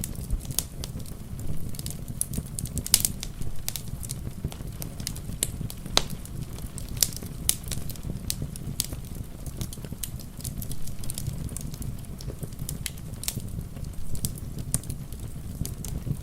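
Wood fire crackling, with irregular sharp pops several times a second, the loudest about three and six seconds in, over a steady low rumble.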